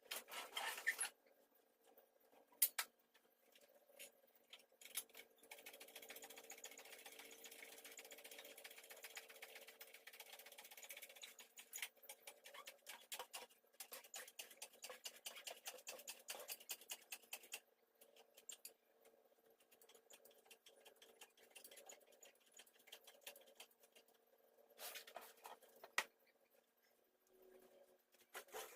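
Faint hand-tool work on an engine: a ratchet wrench clicking in quick spells, with scattered metal clinks and knocks, as the exhaust header bolts are worked loose.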